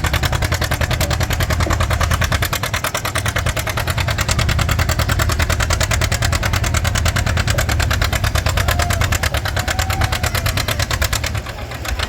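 Pulling tractor's engine running hard with loud, rapid, evenly spaced exhaust pulses, easing off shortly before the end.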